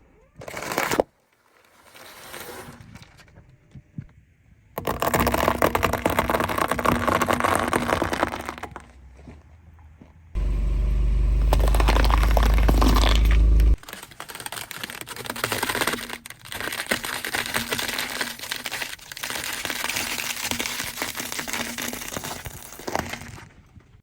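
Crackling and crunching of things being crushed, in several separate stretches, with a strong low rumble for about three seconds near the middle.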